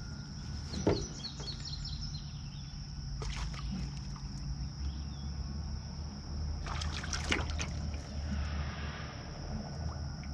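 Water sloshing and splashing at the side of a jon boat while a hooked bass is fought in, with short splashes and clicks about three seconds in and again around seven seconds in.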